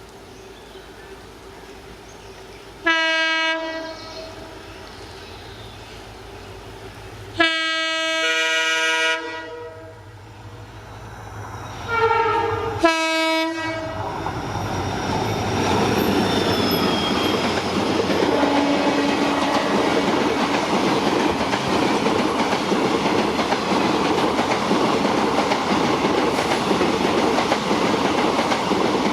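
WDG4D diesel locomotive horn sounding three blasts, the second the longest, followed by the train running past with wheels clattering over the rail joints, growing louder and then staying loud.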